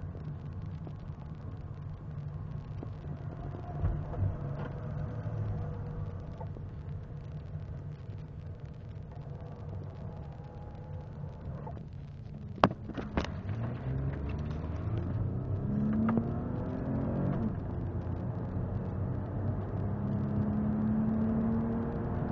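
Toyota Camry's 3.0-litre V6 running steadily at first. About halfway through come two sharp clicks, then the engine pulls hard under full acceleration, rising in pitch, falling back at automatic upshifts and climbing again.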